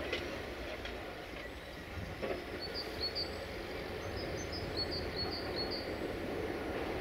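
Steady low rumble of a distant Desiro diesel multiple unit approaching, growing slightly louder. A small bird chirps in short repeated notes from about two and a half seconds in.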